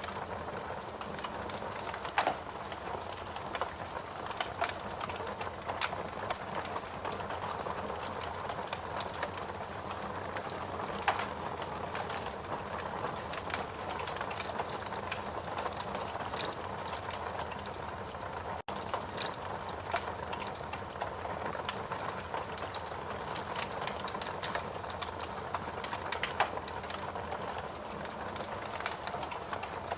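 Log fire in a fireplace crackling steadily, with scattered sharp pops, the loudest about two seconds in and about eleven seconds in. The sound cuts out for a split second a little past halfway.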